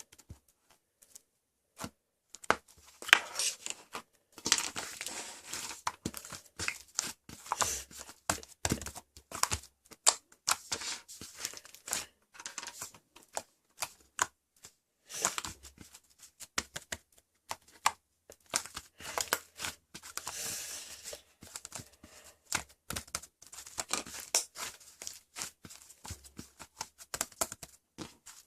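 Crinkling, crackling and tearing sounds in irregular clusters of sharp crackles and short rustles, starting about two seconds in.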